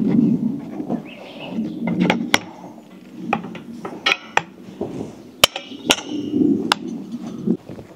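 A series of sharp, separate knocks and clicks, with a quick run of them about four seconds in, over a low rustling.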